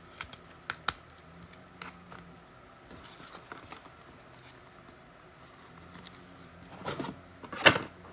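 Trading cards and their packaging being handled on a table: scattered light taps and rustles, with a louder clatter near the end.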